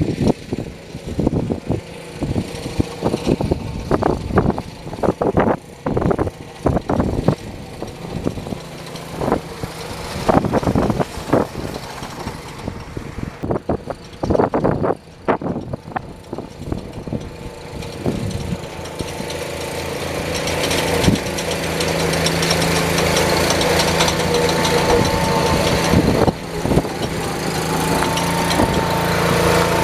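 Lawn tractor engine running. Through most of the first two-thirds it is broken by many irregular sharp knocks and clatters. From about two-thirds in, a steady engine note grows louder and holds.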